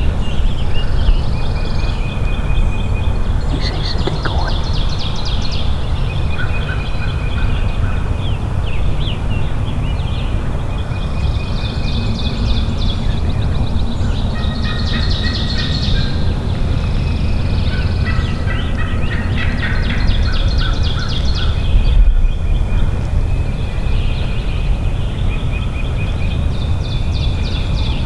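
Eastern wild turkey gobbler gobbling among many songbirds singing and trilling, over a steady low rumble of wind.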